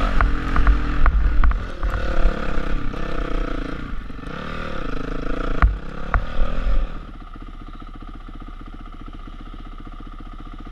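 Honda CRF450R dirt bike's single-cylinder four-stroke engine revving up and down under riding, with sharp knocks and a heavy low rumble. About seven seconds in it drops suddenly to a steady, quieter idle.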